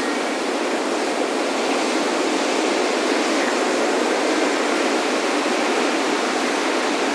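Ocean surf breaking on a beach: a steady, continuous wash of waves with no distinct single breaker standing out.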